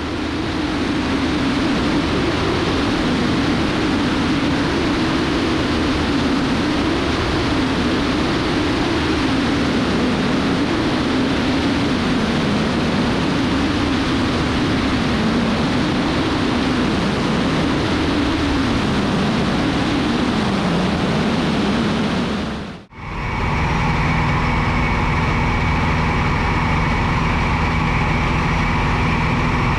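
Loud cabin noise of a small single-engine light aircraft in flight: engine and propeller drone with a slowly wavering pitch. About 23 seconds in it cuts off abruptly, and a steadier drone with several fixed humming tones follows.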